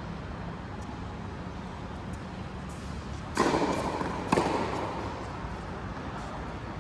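Two sharp hits about a second apart, each with a brief ringing tail: a ball being struck in a racket-sport rally.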